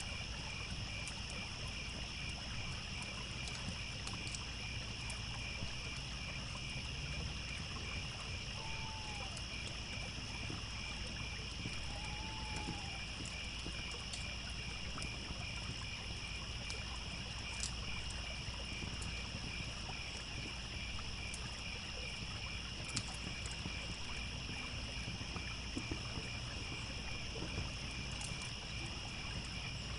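Crickets chirping in a steady, evenly pulsing chorus over the low rush of a trickling stream, with occasional sharp crackles from a wood campfire.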